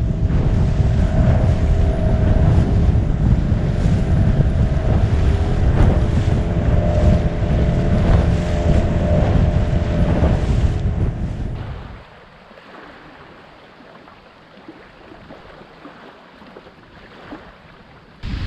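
Boat's outboard motor running under way, with wind buffeting the microphone and a steady drone over a low rumble. About twelve seconds in it gives way to a much quieter stretch of soft background hiss.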